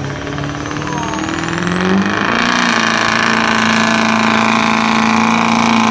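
Ford F-250 pickup engine at full throttle under the load of a truck pull. The revs climb about two seconds in, then hold high and steady, with a high whine rising alongside.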